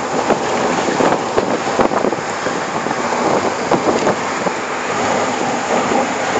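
Wind buffeting the microphone in the open back of a moving truck, over steady rushing road noise.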